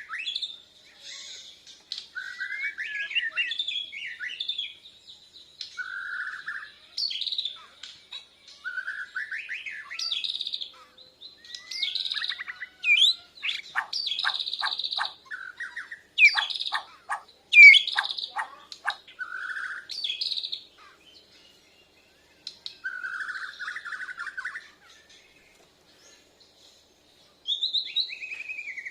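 White-rumped shama (Bornean murai batu) singing a long varied song of rich whistled phrases with quick sliding notes, mixed with a run of sharp clicking notes about halfway through. The song pauses briefly twice near the end.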